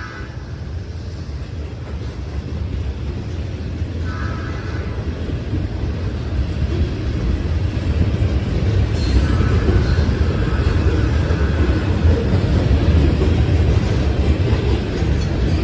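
Freight train led by two EMD SD70ACE diesel locomotives approaching, a heavy low rumble growing steadily louder. Short horn notes sound about four seconds in and again about nine seconds in.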